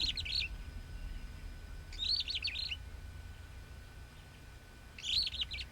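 A small bird calling in short chattering phrases, each a quick run of high notes lasting about half a second. The phrase comes three times, about two and a half seconds apart.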